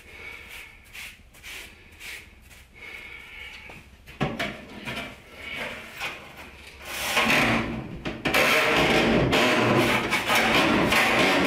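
Long lint brush scraping in and out of a clothes dryer's lint trap slot in a series of short strokes. From about four seconds in a louder sound builds up, and from about eight seconds in it turns into a steady, loud din.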